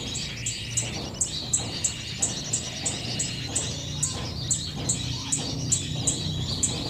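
Small birds chirping, with a steady series of short, high notes about three a second over softer twittering.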